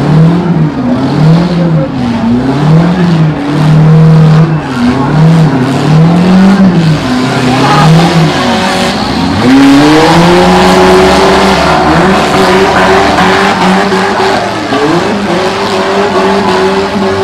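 Small-car engines in a mini-class demolition derby revving, the pitch rising and falling again and again as the cars reverse and ram. About halfway through an engine sweeps up to a high rev and holds it steady.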